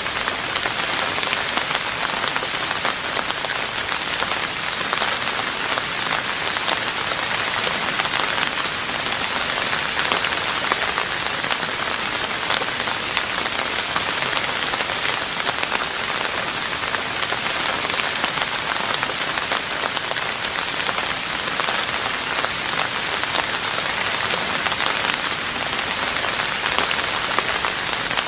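Steady rain falling on a roof: an even, dense hiss of many small drop impacts that holds at the same strength throughout.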